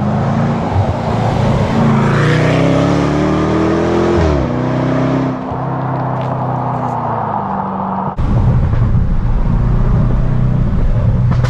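Range Rover Sport SVR's supercharged 5.0-litre V8 running through an aftermarket sport exhaust with its valves open. The revs climb under acceleration, drop sharply about four seconds in as it changes gear, then ease off. About eight seconds in the sound changes abruptly to a steady low engine drone with road noise.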